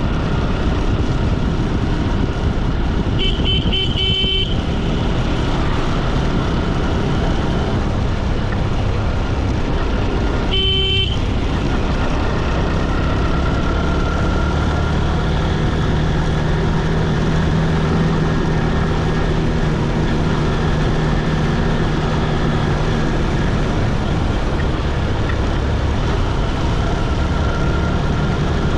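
Motorbike ride road noise: a steady loud rush of engine, wind and tyre noise. A vehicle horn toots in a quick string of short beeps about three seconds in, and gives one more short honk about ten seconds in.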